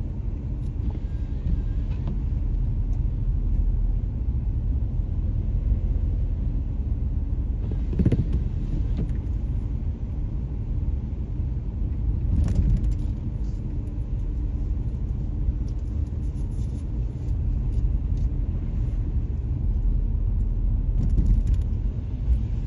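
Car driving, heard from inside the cabin: a steady low rumble of engine and road noise, with two short louder noises, one about eight seconds in and another about four seconds later.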